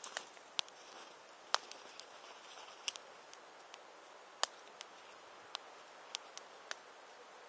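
Wood fire crackling: sharp, irregular pops about once a second over a faint steady hiss.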